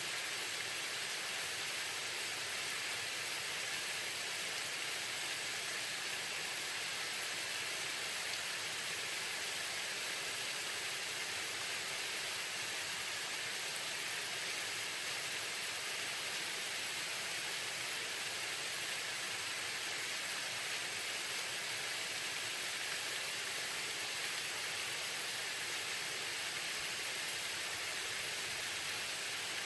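Waterfall: falling water splashing in a steady, unchanging hiss, strongest in the high range with little low rumble.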